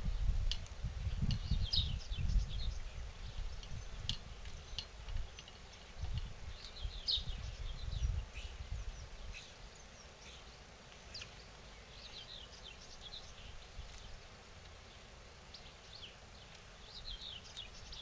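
Small garden birds chirping in short clusters of quick high notes, a few seconds apart, over a low uneven rumble that is louder in the first half and then eases.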